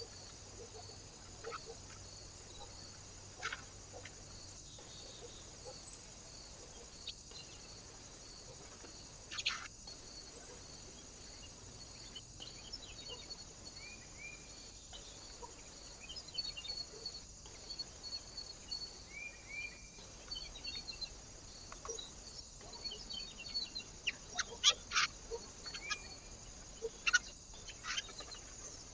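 Small birds at a feeder: short chirps and scattered sharp taps and clicks, busier and louder in the last few seconds, over a steady hiss.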